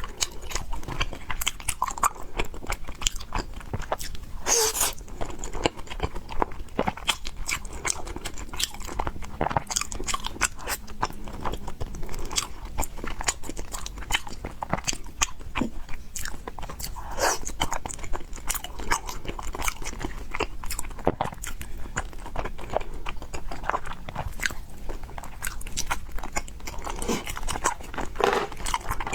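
A person chewing and biting into fried noodles and pork: a dense, steady run of wet mouth clicks and crunches.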